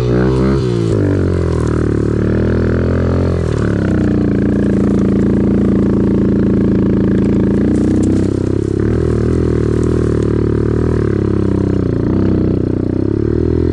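Off-road vehicle engine running under throttle, its pitch rising and falling with the revs. It holds a steady, higher note for a few seconds in the middle, then drops back briefly.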